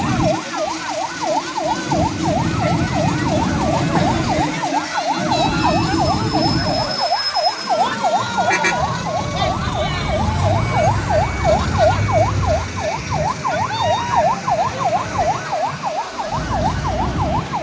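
Emergency vehicle siren wailing in a fast yelp, its pitch sweeping up and down about five times a second without a break, over a low rumble.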